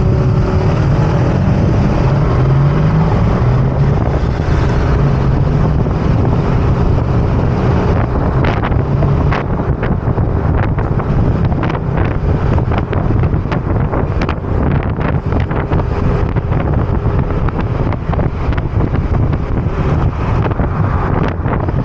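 Wind buffeting the microphone over the engine and road noise of a moving motor scooter. The engine note rises as it speeds up about two seconds in, and the wind buffeting turns choppier in the second half.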